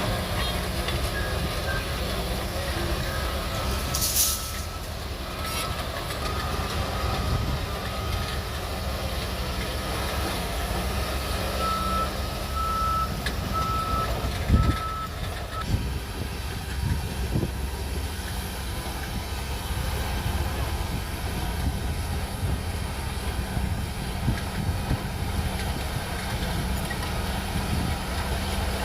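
Shantui DH17C3 bulldozer's diesel engine running steadily, with a reversing alarm beeping at an even pace from about four seconds in until about halfway through. A single sharp knock comes near the halfway point.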